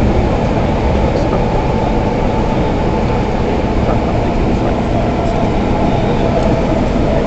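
Steady rumble of a steam-hauled passenger train's carriage running at speed, wheels on the rails, heard from inside the coach.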